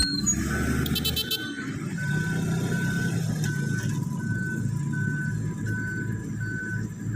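Komatsu D85PX bulldozer's diesel engine running steadily, with its reversing alarm beeping at an even pace of about three beeps every two seconds.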